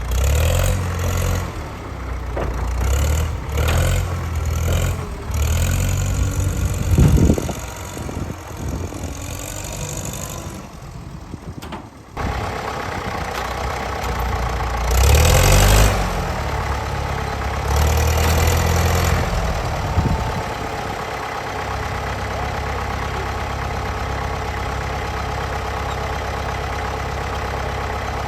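Large tractor engines revving in several short surges, then running steadily at idle.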